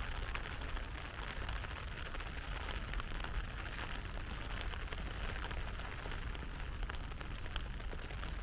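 Heavy rain falling steadily, a continuous hiss with scattered sharp drip ticks that grow more frequent near the end.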